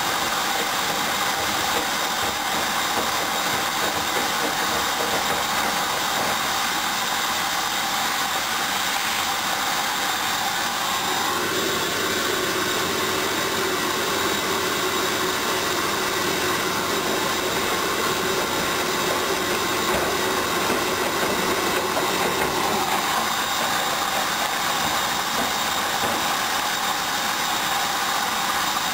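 Hoover DYN 10124DP washing machine running a rinse on its synthetics programme: a steady mechanical whir at an even level. A higher motor tone comes in about a third of the way through and drops away again about two-thirds in.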